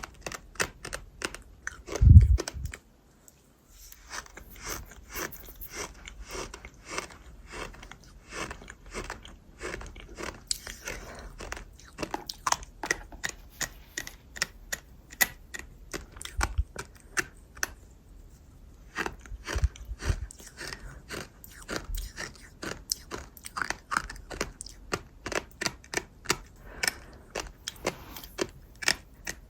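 Close-miked chewing of gritty, crunchy food: a dense run of small crunches and crackles, with a loud low thump about two seconds in followed by a second of silence.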